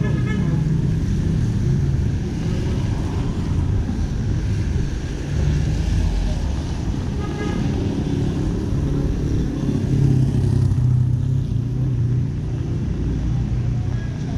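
City street traffic: engines of cars and motorcycles running and passing in a steady low rumble, with brief pitched sounds near the start and about halfway through.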